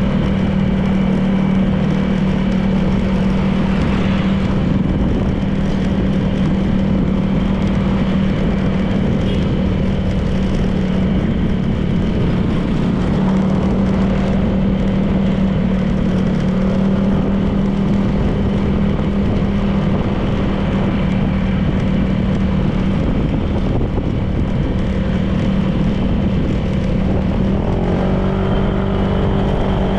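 Honda PCX 160 scooter's single-cylinder engine running at a steady cruise, with wind and road noise. Near the end the steady engine note breaks off and shifting, gliding tones come in as the speed changes.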